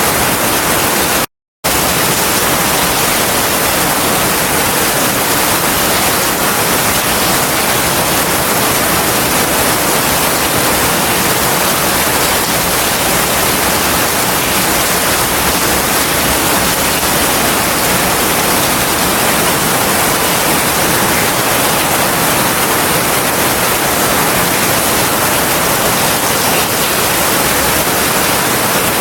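Heavy rain falling as a steady, dense hiss, cut by a brief total dropout to silence about a second and a half in.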